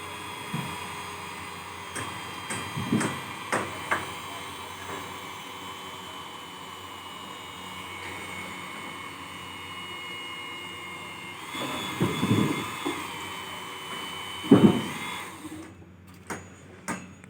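Construction-site noise: a motor runs with a steady whine, while scattered knocks and bangs sound over it, the loudest about three-quarters of the way through. The motor cuts out near the end.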